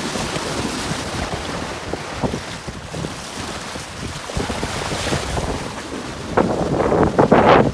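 Strong wind buffeting the microphone over water rushing past a sailboat under way, with a louder rough burst of noise near the end.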